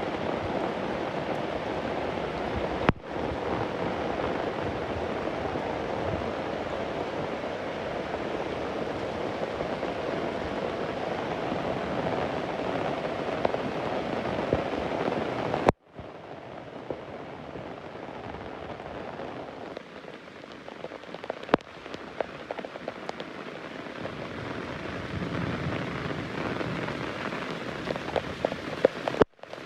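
Steady rain falling as an even hiss, heavier in the first half and lighter in the second half, where single drops ticking stand out. The sound cuts out for a split second three times.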